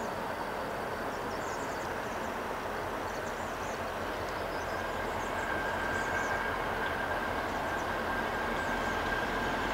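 Approaching diesel passenger train led by an EMD FP9A locomotive, running steadily and growing a little louder. About halfway through, a thin steady high tone joins the rumble.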